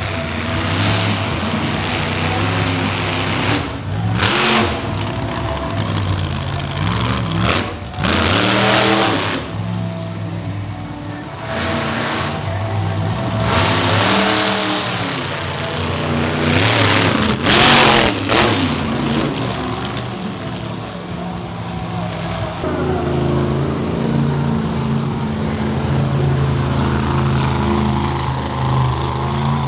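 Monster truck engine revving hard, its pitch rising and falling again and again, with several loud bursts at full throttle. From a little past the middle it settles into a steadier, lower run.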